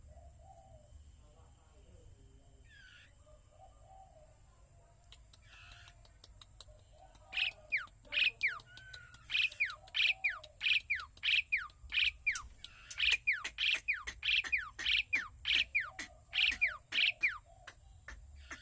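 A bird calls over and over with sharp down-slurred notes, about two a second, starting about seven seconds in and running for some ten seconds, over a low steady hum.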